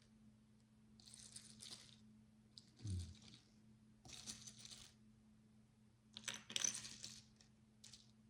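Tiny plastic micro bricks clattering and rattling in three short bouts, with a soft low thud about three seconds in.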